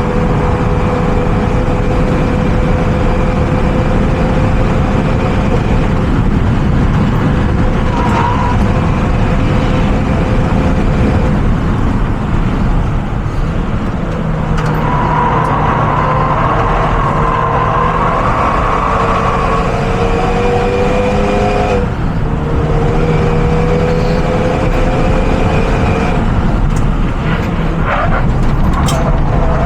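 Renault Mégane RS engine running hard at speed, over tyre and wind noise. The engine note climbs slowly for stretches of several seconds, with sudden breaks and drops in pitch a few times, as at gear changes.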